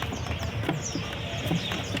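Many caged small birds chirping in short high calls, with scattered sharp clicks and taps over a steady low hum.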